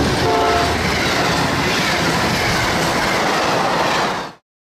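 A train passing close by: a brief locomotive horn chord just after the start, then the steady rumble and clatter of wheels on the rails, which cuts off shortly before the end.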